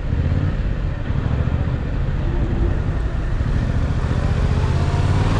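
A 2021 Yamaha MT-07's parallel-twin engine running at a steady pace while riding in traffic, a low even drone with a hiss of wind and road noise over it.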